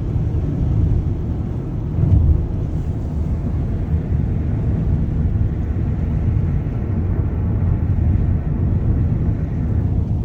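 Car driving slowly on a snow-covered road: a steady low rumble of engine and tyres, with a brief louder bump about two seconds in.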